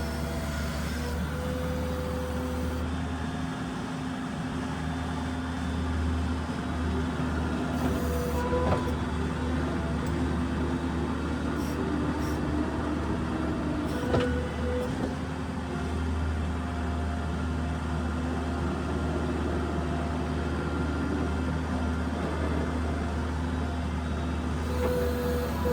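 New Holland skid steer's diesel engine running steadily at work, with short whining tones coming and going over it. Two sharp knocks stand out, about a third of the way in and just past halfway.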